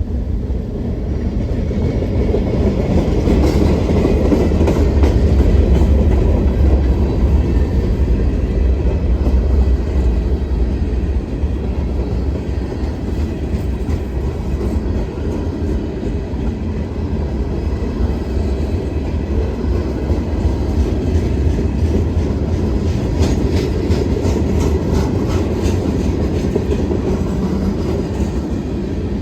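Train rolling past with a steady heavy rumble, its wheels clacking over rail joints, the clacks thickest in the second half.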